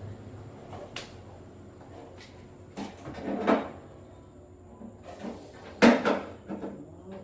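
Knocks and clacks of household objects being handled, irregular, with a louder bang about six seconds in.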